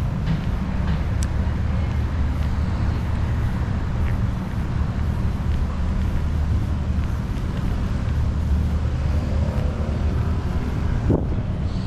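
Urban road traffic: a steady low rumble of passing vehicles, with a brief sharp click a little before the end.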